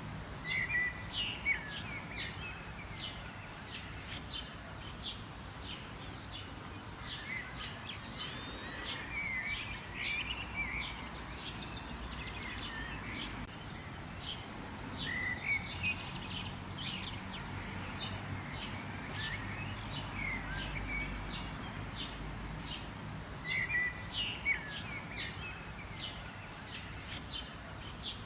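Wild birds calling: a steady stream of short, high chirps, with a louder warbling phrase a few times, over a constant low background of outdoor noise.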